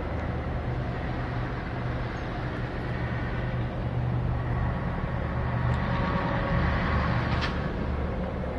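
Aircraft engine noise from an aircraft passing overhead, a steady drone that swells slightly before easing near the end, with one brief click shortly before.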